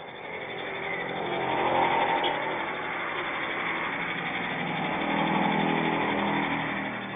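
A motor vehicle engine passing by, growing louder over the first couple of seconds, holding, then fading near the end.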